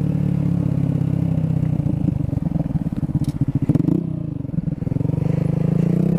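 Kawasaki Z125's single-cylinder engine running under way. About two seconds in it turns choppy, with a couple of sharp knocks near three and a half seconds. It drops lower and quieter around four seconds, then picks up again.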